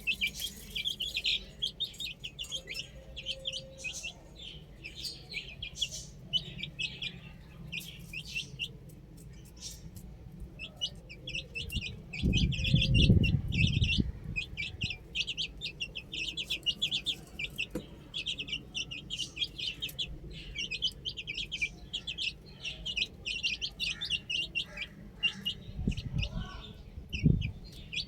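Baby chicks peeping, a steady stream of short high-pitched chirps. About halfway through a low rumble lasts roughly two seconds and is the loudest sound, with a shorter one near the end.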